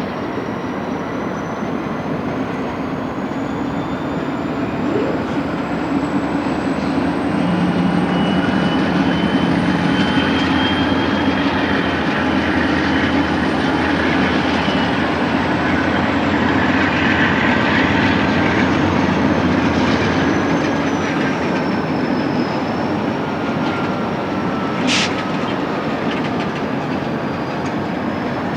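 Diesel switching locomotives working a cut of freight cars at slow speed: a steady engine rumble with wheels rolling over the rails and faint thin squeals slowly drifting in pitch. About 25 seconds in comes a short, sharp, high-pitched screech.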